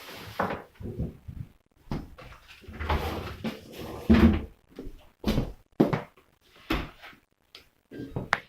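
Food containers and packages being set down and shuffled inside a fridge: a string of irregular knocks and clunks with rustling in between, the loudest clunk about four seconds in.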